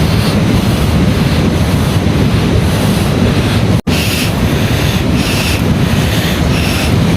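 Heavy rain pouring down, a loud steady rush with a deep rumble. The sound drops out for an instant a little past halfway, then the rain carries on.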